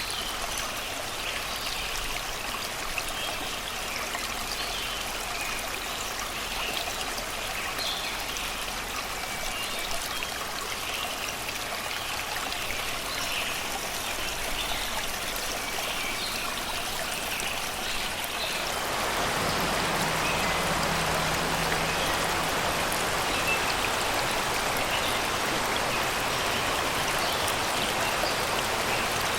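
Shallow river rushing and babbling over rocks in a steady flow, with faint birds singing in the forest. About two-thirds of the way through, the water sound steps up louder and fuller.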